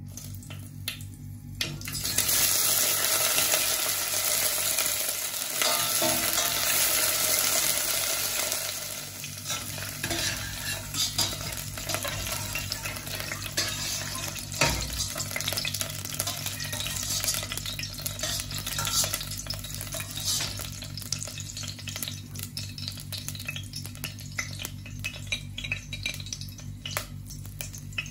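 Sliced okra sizzling as it deep-fries in hot oil in a stainless steel pot. The sizzle comes up loud about two seconds in, as the okra goes into the oil, then dies down after several seconds to a lighter, crackling fry.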